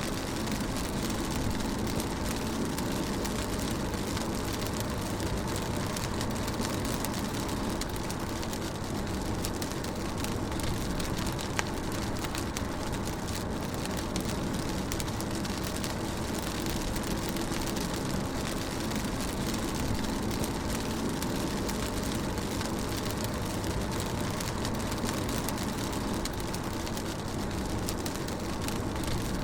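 Rain drumming on a car's roof and windscreen, heard from inside the cabin while the car drives, with a steady low road and engine noise under it and now and then a single louder drop tick.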